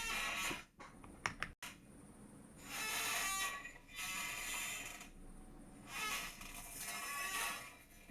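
Chair creaking in a series of drawn-out squeaks, about four a second or two apart, with a few sharp clicks about a second and a half in.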